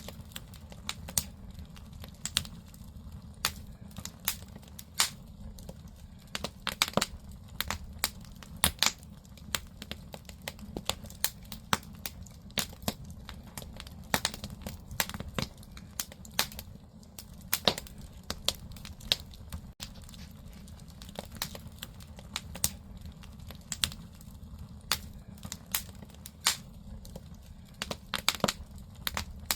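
Firewood burning in a traditional Korean agungi firebox: irregular sharp crackles and pops, sometimes several close together, over a steady low rumble of the fire.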